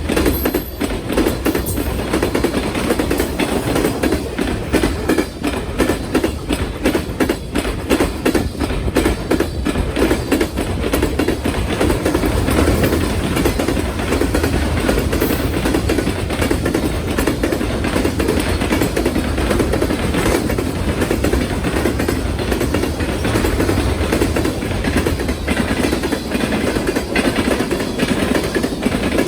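Train rolling over a railway diamond crossing: a steady heavy rumble with rapid metallic clicking and clattering as the wheels strike the crossing, busiest in the first half.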